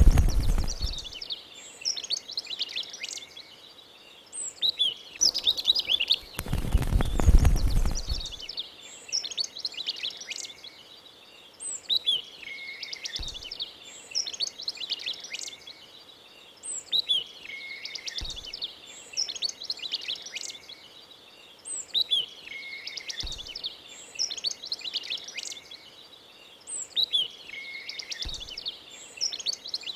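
Small songbirds chirping and twittering in a pattern that repeats about every five seconds. A low rumble, like a gust, comes at the very start and again from about six to eight seconds in, and later a soft low thump falls once in each repeat.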